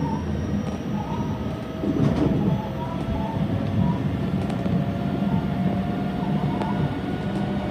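Electric commuter train running at speed, heard from inside the front car: a steady rolling rumble of wheels on rail with a faint steady whine, swelling briefly about two seconds in.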